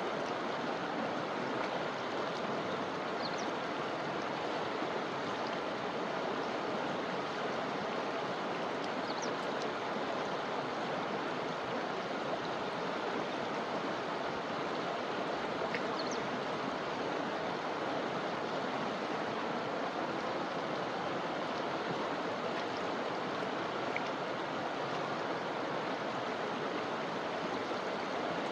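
River water flowing steadily, an even rushing sound, with a few faint short high chirps over it.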